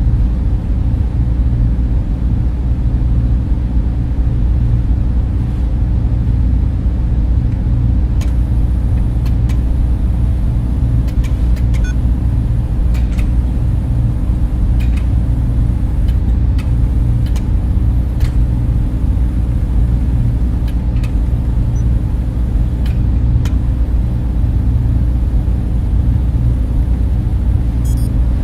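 Server room cooling fans running with a steady, deep drone, with a few faint clicks in the middle stretch.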